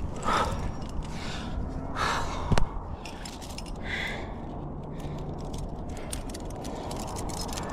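A climber breathing hard in three heavy breaths over the first four seconds, then a run of small metallic clicks and jingles like climbing gear on a harness, over a steady low rumble of wind on the microphone.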